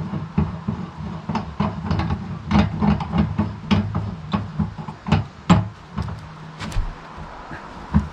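Irregular knocks and clunks of a large log being levered and shifted on a small bandsaw mill's bed, several a second at times, over a low steady hum that fades out about seven seconds in.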